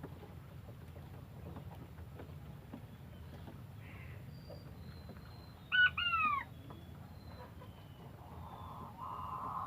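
A quail gives two short, loud calls about six seconds in, each a clear note falling in pitch, over faint distant bird chirps. A steady hiss starts near the end.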